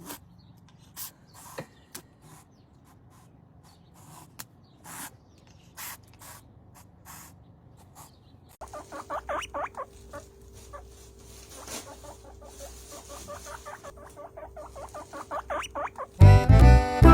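A small animal's rapid, high, short squeaks or peeps in quick runs over a steady hum, after several seconds of scattered faint clicks. Music comes in near the end.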